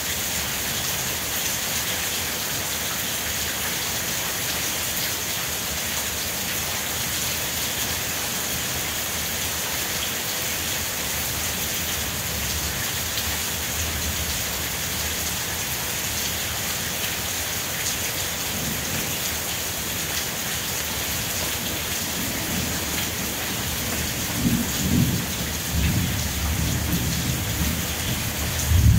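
Steady rain falling, an even hiss. Low rumbles of thunder come in about three-quarters of the way through and grow louder near the end.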